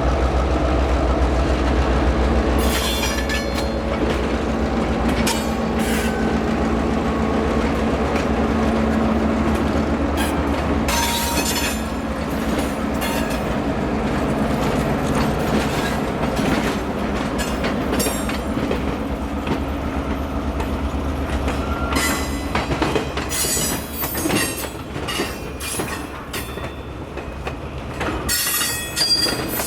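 Diesel locomotive engines run low and steady, then fade as railcars roll past with clacking wheels and several short spells of high wheel squeal.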